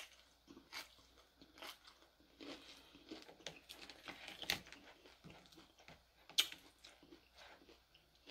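Close-miked chewing and crunching while eating homemade tacos: irregular soft crunches and mouth sounds, the sharpest crunch a little over six seconds in.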